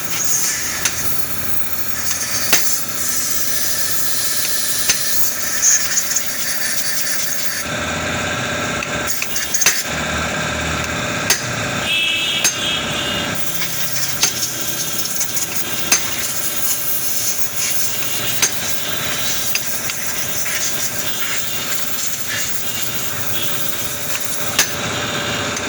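Irregular metallic taps and clinks of hand tools working on a motorcycle engine during servicing, over steady background noise.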